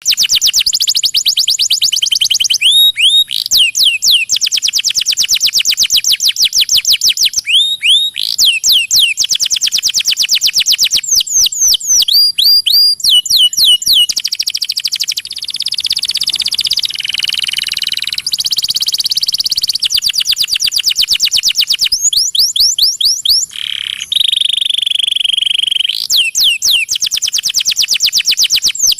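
Domestic canary singing: long, very fast trills of clear high notes, broken by short runs of sweeping notes, starting abruptly.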